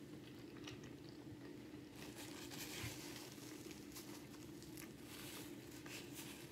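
Faint close-miked chewing of a mouthful of hot dog and bun, mouth closed, with soft rustling of a paper napkin wiped across the lips partway through, over a steady low hum.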